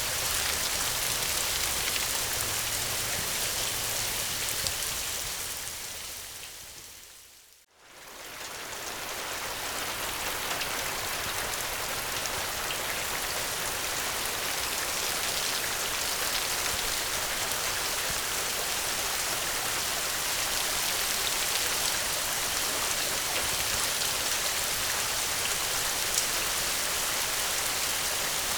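Steady, heavy rain falling. About six seconds in it fades down to near silence, then swells back up within a couple of seconds and carries on evenly.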